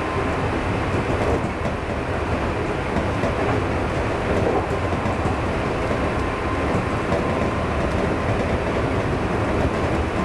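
Steady running noise of a 211 series electric multiple unit, heard from inside the driver's cab as it travels along the track.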